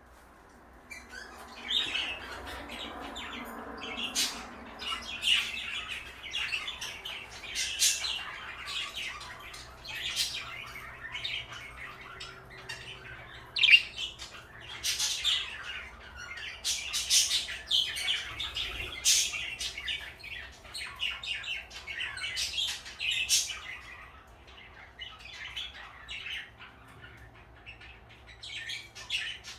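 Pet parakeets (budgerigars) chirping and chattering, with sharp squawks mixed in. It starts about two seconds in, has one especially loud call midway, and thins out near the end.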